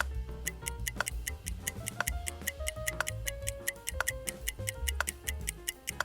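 Countdown-timer sound effect: fast, even ticking with a stronger tick once a second, over background music.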